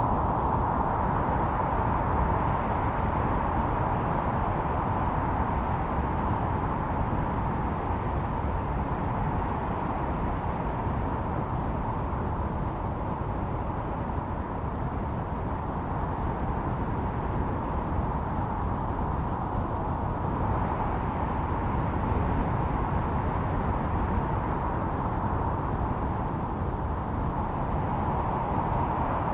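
Snowstorm wind howling steadily: a hollow, whistling howl over a deep rumble, swelling a little near the start and again about two-thirds through.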